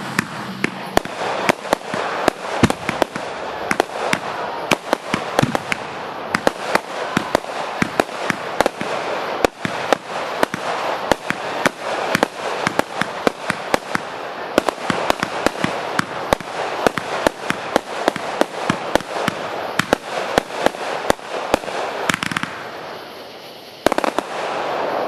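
Aerial fireworks going off in rapid succession: sharp bangs, several a second, over a continuous crackling hiss. They thin out about 22 seconds in, and one more loud burst comes near the end.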